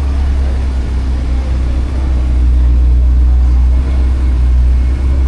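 Car driving: a steady low rumble of engine and road noise, growing a little louder about two seconds in.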